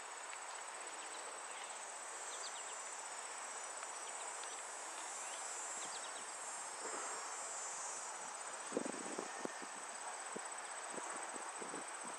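Insects trilling in a steady, high-pitched pulsing drone. A few sharp knocks come in the last few seconds.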